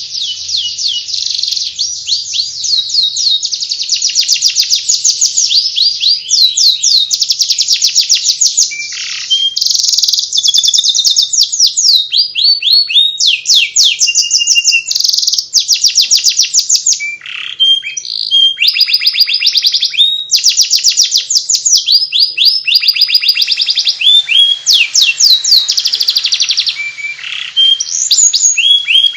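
Domestic canary singing in the 'ngeriwik' style: a long, nearly unbroken run of fast, high trills and rapidly repeated chirps, changing from one phrase to the next with only brief pauses.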